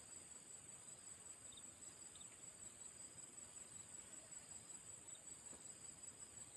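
Faint, steady high-pitched insect chorus, with a few tiny high chirps.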